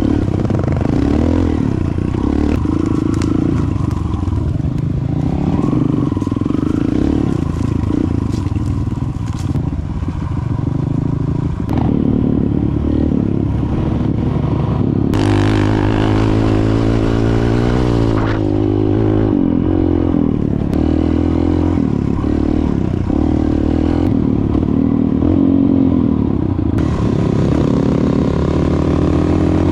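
Dirt bike engine running under way, its pitch rising and falling as the throttle is opened and eased, with a run of climbing revs about halfway through.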